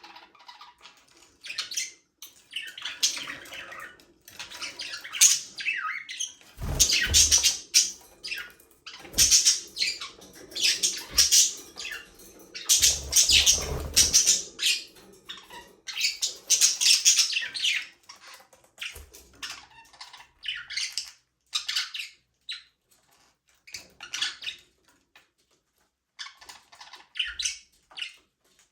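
A flock of budgerigars chirping and squawking in quick, overlapping calls. The chatter is busiest through the middle and thins out to scattered chirps near the end.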